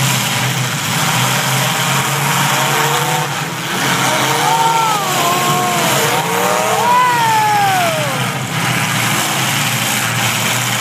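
Demolition derby cars' engines running hard under steady engine noise, with engines revving up and down in pitch between about four and eight seconds in.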